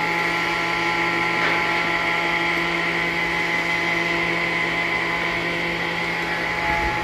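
Sawmill circular-saw machinery running steadily: a constant motor hum with several steady whining tones over a hiss.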